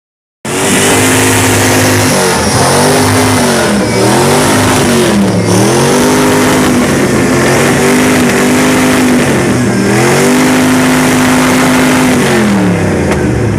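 A car engine revved hard through a loud exhaust, held at high revs and let drop and climb back again several times, then falling off near the end.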